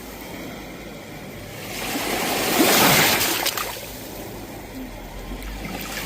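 Sea waves breaking on the shore: one wave swells to a crash about halfway through and washes back out, and the next starts to build near the end.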